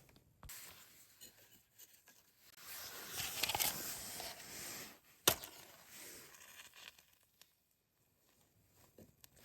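Faint handling noises: scattered small rustles, a noisy swell lasting about two seconds, then a single sharp click about halfway through.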